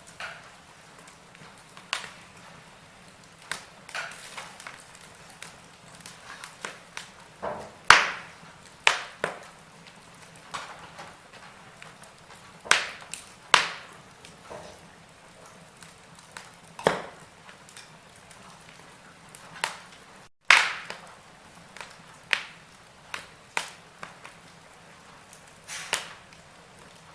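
Wood fire in a fireplace crackling, with irregular sharp pops, a few of them loud, over a faint steady hiss. The sound drops out for an instant about two-thirds of the way through.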